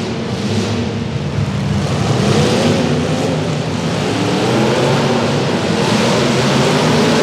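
Engines of several demolition derby cars running and revving together, their pitch rising and falling, over a steady rush of noise.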